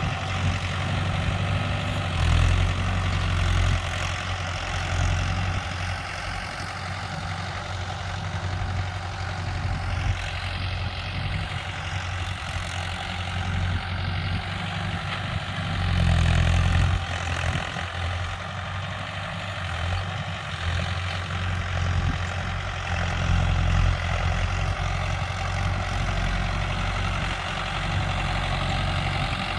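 Mahindra Yuvo 575 DI tractor's diesel engine running steadily, swelling louder briefly a few times, most strongly about sixteen seconds in.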